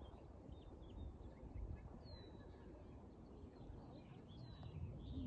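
Faint bird chirps and short down-sweeping calls over a low steady rumble, two calls standing out about two seconds in and near the end.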